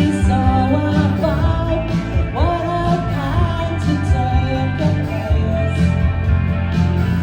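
Live rock band playing, with a singing voice over guitar, bass and drums.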